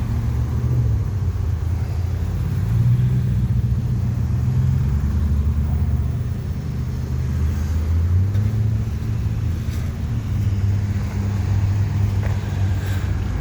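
Motor vehicle engine running nearby: a steady low rumble whose pitch rises and falls slightly a few times.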